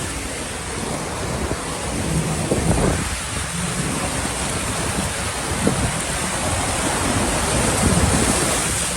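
Storm noise: a steady rush of water with wind buffeting the microphone in irregular low gusts.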